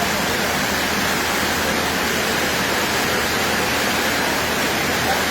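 Heavy hurricane rain pouring: a steady, even rushing noise with no breaks.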